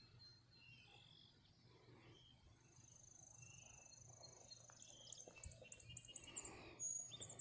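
Small birds calling: a long, thin, high trill, then about halfway through a quick run of high chirps, with a few more near the end. A faint steady low hum lies underneath.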